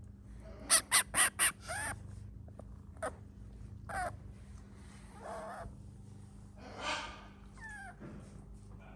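A quick run of four short, loud animal calls about a second in, then a fifth, followed by scattered quieter calls.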